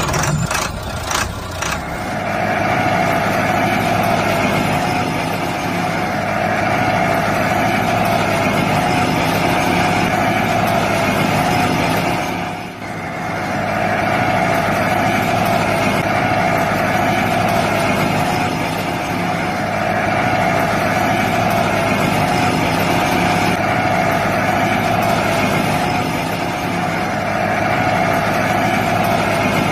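Small motor of a handmade miniature tractor running steadily, with a brief dip about thirteen seconds in.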